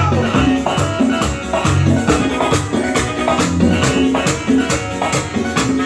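Latin band music with bass notes under a steady, even percussion rhythm with maracas.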